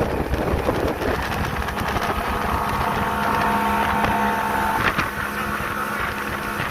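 Speedboat engine running steadily at speed with a continuous whine, over rushing wind and water.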